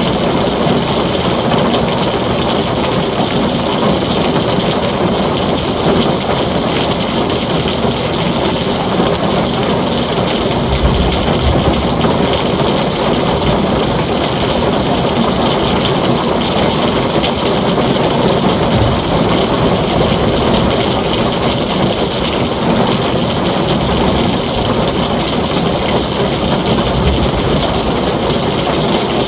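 Heavy rain pouring steadily on a tin roof, a dense, even hiss, with low thunder rumbles about ten seconds in and again later.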